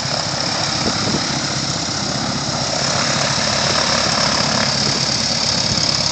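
Honda CT90's small single-cylinder four-stroke engine idling, with a light aircraft's engine heard over it, swelling slightly toward the end.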